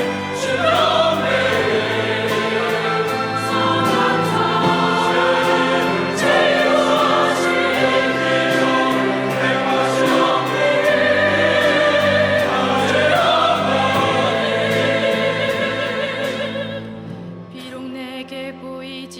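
Church choir singing with a small orchestra, piano and drum kit, the drums keeping a steady beat. About three seconds before the end the drums stop and the music drops to a quieter, softer passage.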